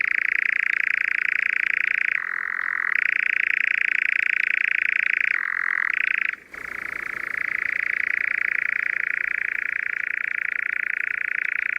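European nightjar churring: a continuous, rapid vibrating trill that drops lower in pitch twice and breaks off for a moment about six and a half seconds in, then carries on.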